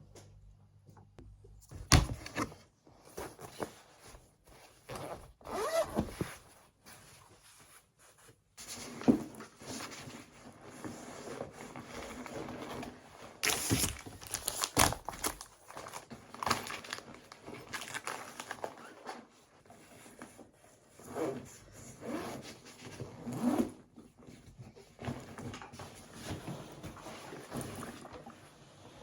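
Everyday handling sounds: irregular rustling with scattered clicks and light knocks.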